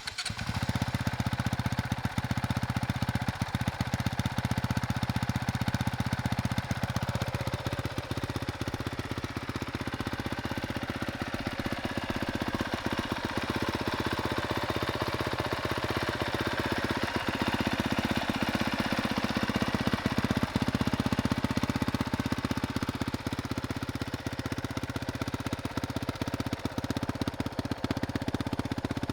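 2022 Honda CRF450R's single-cylinder four-stroke engine starting up and then idling steadily through its stock muffler.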